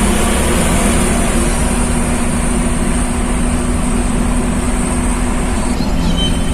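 Truck engine and exhaust running steadily under way, with a continuous drone and road noise.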